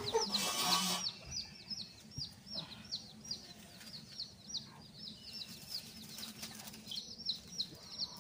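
Birds chirping rapidly and continuously, short high-pitched chirps that fall in pitch, several a second. There is a brief hiss about half a second in.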